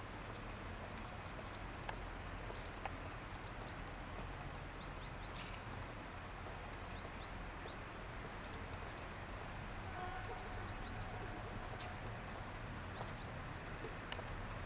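Small birds chirping in short, high calls over a steady low background hum, with a faint held tone near the end.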